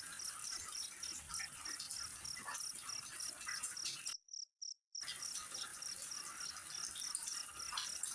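An insect, cricket-like, chirping steadily at about four high-pitched chirps a second over a soft hiss; the sound cuts out completely for under a second about four seconds in.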